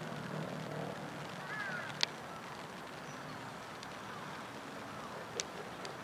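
Faint wild bird calls, a few short chirps over a low steady rumble, with two short sharp clicks, one about two seconds in and one near the end.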